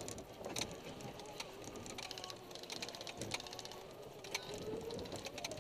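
Airsoft guns firing at a distance: scattered single pops and short rapid rattling bursts of clicks, heard from a moving golf cart.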